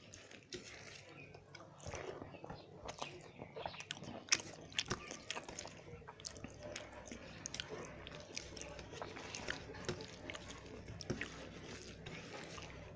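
Close-up eating sounds: wet chewing with many irregular sharp mouth clicks, from someone eating rice with fish curry.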